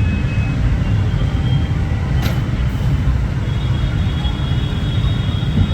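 Steady low rumble of motor vehicles, with a faint high whine and a brief click about two seconds in.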